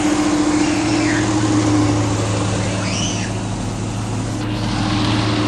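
An old truck's engine, running for the first time in a couple of years, keeps running steadily with an even low hum.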